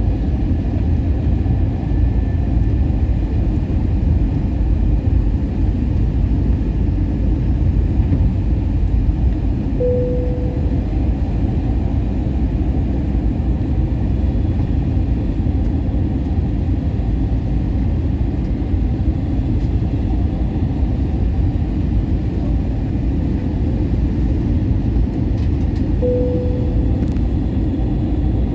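Airliner cabin noise during descent: a steady low rumble of engines and rushing air. A short steady tone sounds about ten seconds in and again near the end.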